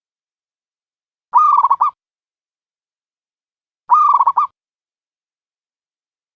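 Dove call played as a trapping lure: a short, stuttering coo repeated every two and a half seconds or so, twice in full and a third starting at the very end.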